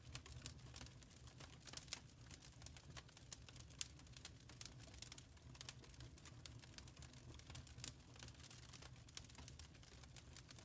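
Wood fire crackling in a fireplace: faint, irregular pops and snaps over a low, steady rumble.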